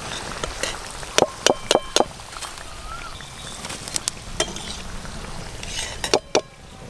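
Potato chops and gram-flour-battered green chillies frying in hot oil in a metal wok, a steady sizzle. A metal slotted spoon clinks against the wok four times in quick succession about a second in, and a few more times near the end.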